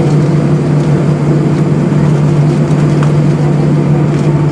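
Steady low drone inside the cabin of an Airbus A320 on the ground, with its engines idling and the air-conditioning humming; there is no spool-up for takeoff yet.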